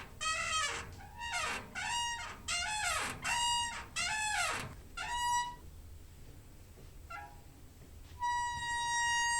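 Squeaky door hinge creaking as the door is swung: a run of short squeals that bend up and down in pitch over the first five seconds or so. After a pause, a long steady high squeal starts about eight seconds in.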